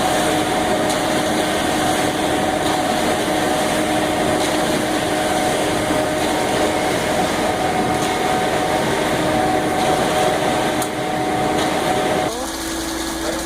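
Concrete mixer truck running close by, a loud steady mechanical drone with a steady hum in it. The sound changes abruptly near the end, getting a little quieter and losing much of its low rumble.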